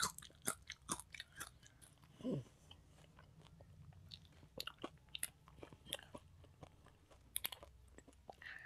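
Close-miked chewing of rice and dal: a run of small wet mouth clicks and smacks, irregular and quick. A short pitched throat sound about two seconds in.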